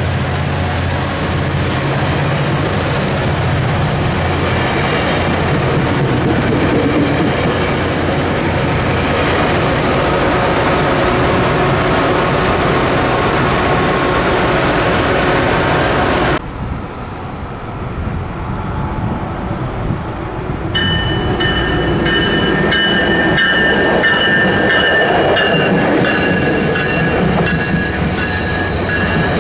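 Caltrain bilevel commuter train rolling along the platform, a steady rumble and rattle of cars on the track. After a cut about 16 seconds in, another Caltrain train passes, its wheels squealing with several steady high-pitched tones from about 21 seconds on.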